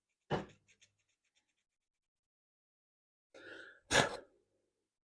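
A few short knocks and scrapes from handling small engine parts, with a soft rustle and then the loudest clunk near the end.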